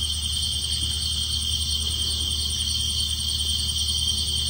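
Steady night chorus of crickets and other insects trilling in several high overlapping pitches, with a fast pulsing in the highest one. A low steady hum runs underneath.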